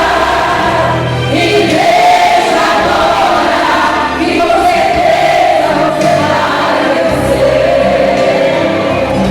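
Women's gospel choir singing a hymn over instrumental backing with a bass line.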